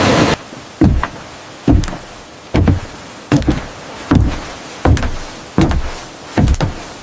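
Rhythmic blows of a tool striking wood, eight in a row a little under a second apart, each a dull knock with a short fading tail. Just after the start, a loud steady rushing noise cuts off abruptly.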